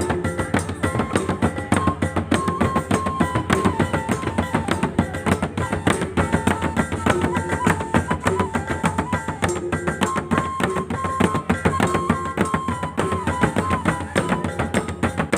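Gordang sambilan, the Mandailing drum ensemble, playing a fast, dense drum beat, with a melody of held notes stepping up and down above it.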